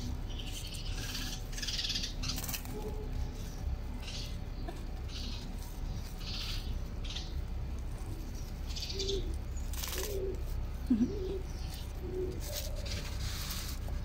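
Short high bird chirps, repeated every second or so, as from sparrows around a fledgling. Between about nine and thirteen seconds in, a few low wavering cooing notes join them.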